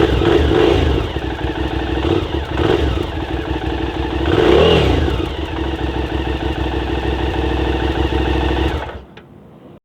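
QJMotor SVT 650X motorcycle engine running through its exhaust, revved briefly twice, about half a second in and again about four and a half seconds in, before the sound stops near the end.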